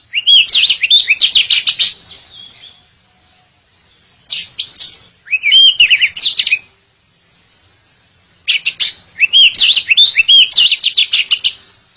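Oriental magpie-robin (kacer) singing: three loud bursts of quick, varied whistled notes that sweep up and down, separated by pauses of a second or two.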